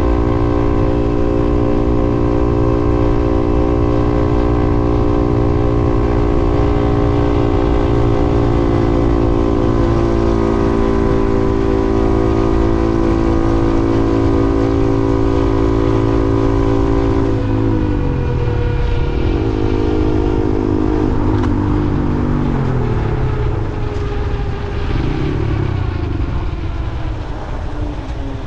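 A vehicle engine running at a steady cruising speed, with low wind rumble on the microphone. About 17 seconds in, its pitch drops and then rises and falls as the vehicle slows and changes speed.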